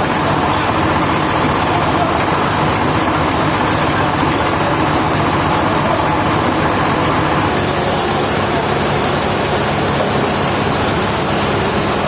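Sawmill machinery running with a steady engine drone.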